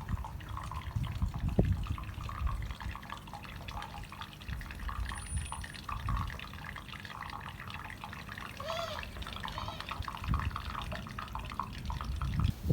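Water trickling and splashing steadily, with a low rumble underneath.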